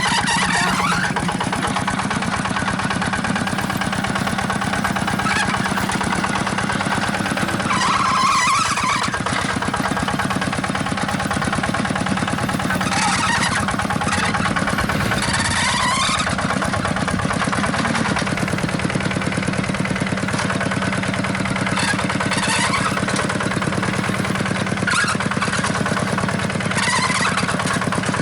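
A small engine running steadily at a constant speed, with rapid, even firing pulses.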